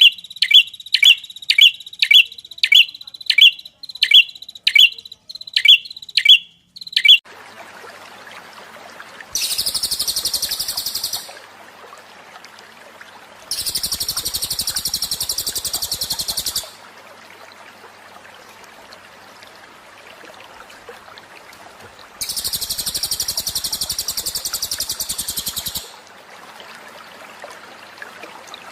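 Small songbirds calling, as in a masteran training recording: first a bird repeating a sharp chirp about twice a second, then after a change of recording a different bird giving three long, very high, buzzing trills over a faint steady hiss.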